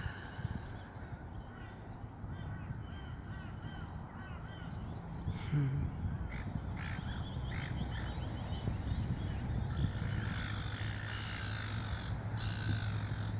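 A flock of seabirds calling: many short, harsh, overlapping calls that grow denser near the end, with a low steady hum underneath.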